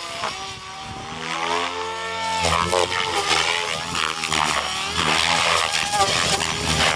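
Electric 700-size RC helicopter in flight, its motor and rotor whine sliding up and down in pitch as it manoeuvres, quieter at first and louder from about two and a half seconds in.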